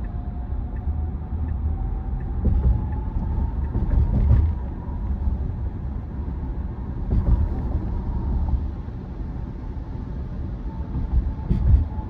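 Steady road and tyre rumble inside a Tesla Model Y's cabin while driving, with a faint whine that rises in pitch over the first few seconds as the car speeds up. A few heavier thumps come about four, seven and twelve seconds in.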